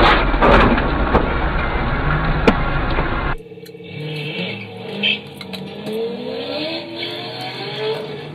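Loud, noisy dashcam road sound with several sharp knocks, cut off abruptly about three seconds in. Then car engines accelerating from a stop, the engine note rising steadily for a few seconds.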